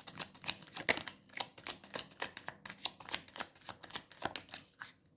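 Tarot cards being shuffled by hand: a quick, irregular run of crisp card clicks and snaps that stops near the end.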